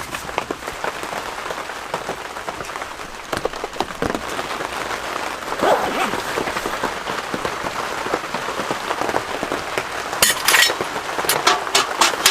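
Rain falling on a surface, heard as a steady hiss full of separate drops, with a few sharper, louder ticks near the end.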